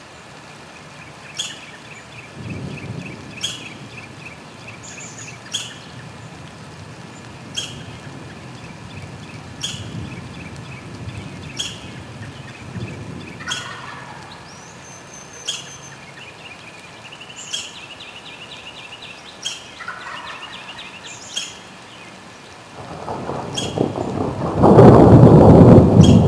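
Thunder: low rumbles come and go, then a loud peal builds near the end and is the loudest sound. A bird gives a short call about every two seconds throughout, with occasional trills from other birds.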